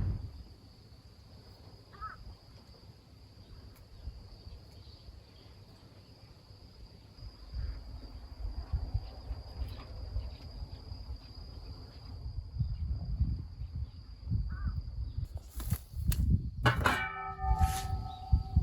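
Crickets or similar insects chirring in one steady high note, with low rumbling noise on the microphone from about a third of the way in. A couple of short chirps come in the middle, and a brief call with several tones comes near the end.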